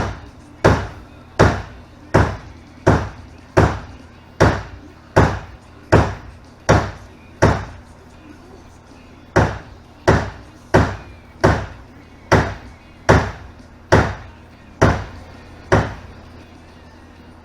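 Dead blow hammer striking a PVC pipe to drive it into a tight fit: about twenty steady blows, roughly three every two seconds, with a pause of about two seconds midway.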